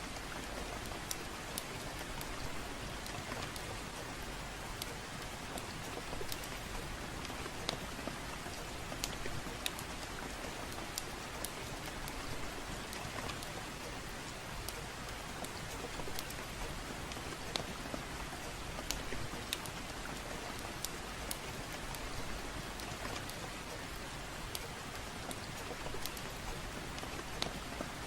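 Steady gentle rain, an even hiss with scattered sharp clicks and pops throughout.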